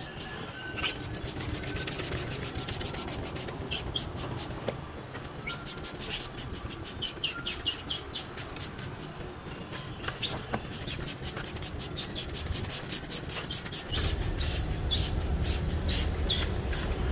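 All-purpose cleaner being applied to a car's lower panels and wheel arches: quick runs of short, sharp strokes, several a second. A low rumble joins near the end.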